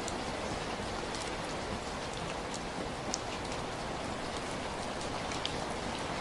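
Heavy rain falling steadily, a dense even hiss with scattered individual drops ticking sharply on a surface.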